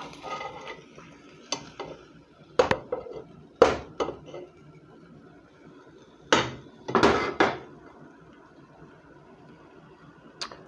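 Metal kitchen utensils and a cooking pot clanking: about half a dozen sharp, irregular knocks and scrapes as sliced chicken is moved into the pot.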